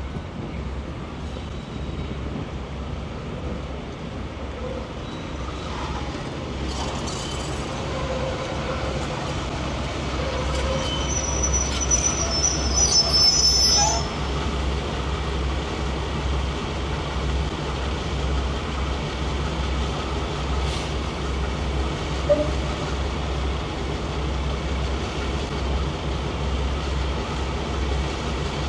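BR blue mainline diesel locomotive rolling slowly in with its engine running in a low, steady throb, growing louder as it approaches. The wheel flanges squeal on the curved track about twelve seconds in, then the engine idles on as the locomotive stands, with one short knock near the end.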